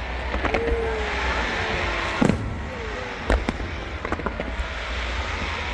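Fireworks display: a string of sharp bangs from bursting shells, the loudest a little over two seconds in, over a steady low rumble.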